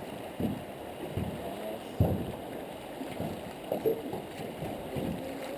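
River water moving and lapping against the hull of a boat, a low steady wash, with one sharp knock on the boat about two seconds in.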